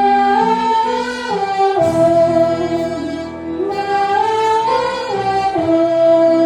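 Small orchestra playing a slow worship song: a melody moves in long held notes, stepping up and down, over sustained chords.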